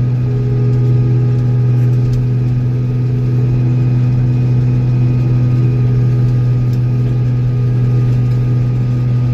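Tractor engine running at a steady speed: a constant drone that holds one pitch.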